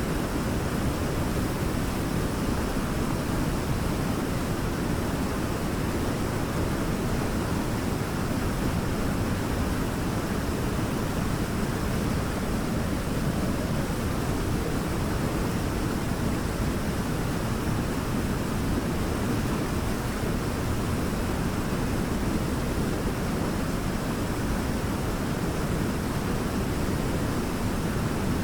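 Waterfall: a steady, unbroken rush of falling water, deep and even throughout.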